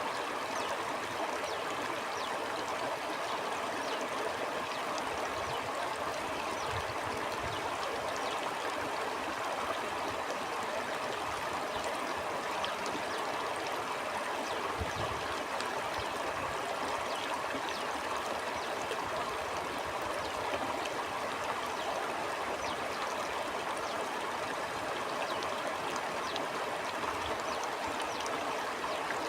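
Stream water flowing steadily over rocks, a constant rushing with small gurgles and splashes.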